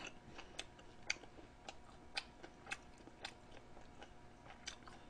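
Faint chewing: soft, irregular mouth clicks about twice a second as food is chewed.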